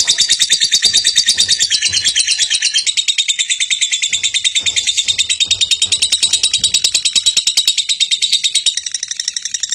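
Lovebird singing its long 'ngekek' chatter: a rapid, unbroken run of sharp high chirps, about eight a second, held without a pause, slightly weaker near the end.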